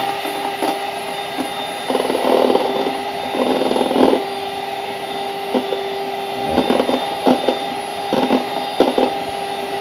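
Electric mixer running steadily on high speed, whipping egg whites into a foam: a constant motor whine with short louder bursts now and then.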